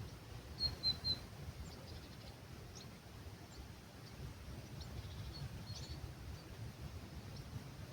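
Small songbirds calling at dawn in an olive grove: three short, high, bright notes close together about a second in, then scattered faint chirps, over a low steady rumble of breeze.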